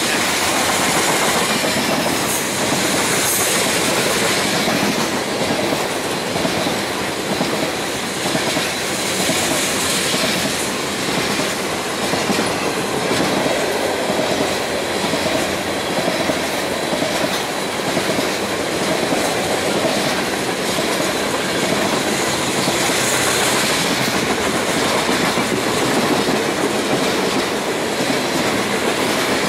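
Freight train cars, tank cars and then boxcars, rolling past at speed: a steady rumble of steel wheels on rail with a clickety-clack from the wheel sets. A high hiss swells and fades a few times, about two, nine and twenty-three seconds in.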